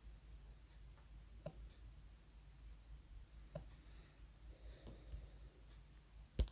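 Fingertip taps on a phone touchscreen: a few light clicks a couple of seconds apart, the last one near the end the loudest, over a low steady room hum.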